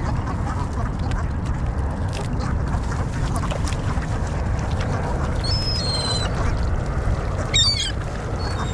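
Waterbirds calling over a steady low rumble: a pair of high calls a little past halfway and a short harsh call near the end.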